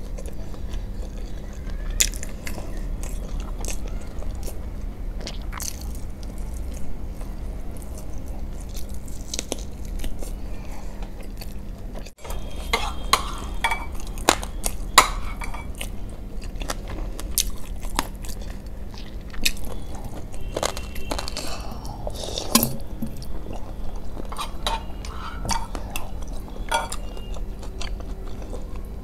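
Close-miked eating sounds: wet chewing, biting and crunching, first of a sauce-coated fried chicken lollipop, then, after a brief break about twelve seconds in, of masala Maggi noodles taken up by hand. A faint steady hum runs underneath.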